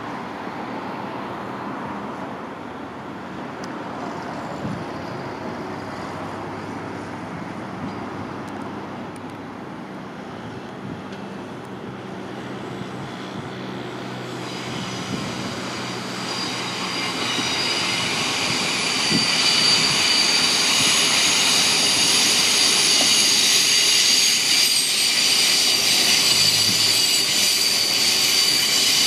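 A passenger train running, first as a steady low rumble; about halfway in, a high squeal of several tones from wheels on the rails joins and grows louder toward the end.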